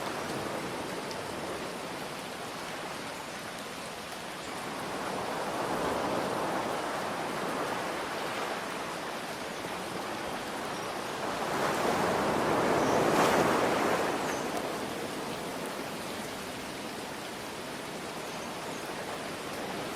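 Ocean waves washing in over a steady hiss of rain, with one wave swelling up a quarter of the way in and a bigger, louder one breaking about two-thirds through before it ebbs away.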